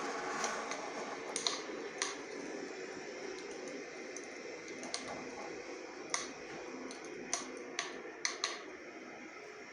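Small fire crackling: irregular sharp pops over a steady hiss.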